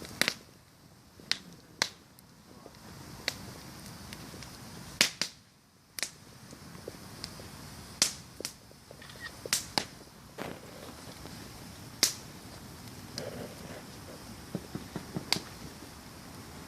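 Wood campfire crackling: sharp, irregular pops and snaps from burning wood every second or so over a quiet, steady hiss.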